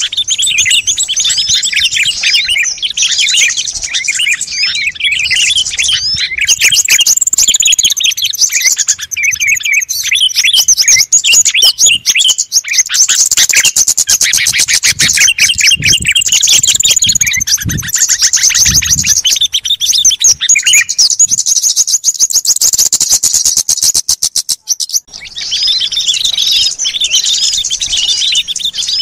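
Dense chorus of many small songbirds chirping, whistling and trilling at once, played as a lure call for small wild birds. A rapid, even trill runs through the middle and breaks off shortly before the end, when the chirping carries on.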